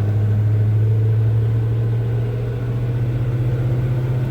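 1984 Chevy C10's freshened 350 V8 engine running steadily under way, a loud low drone heard from inside the cab.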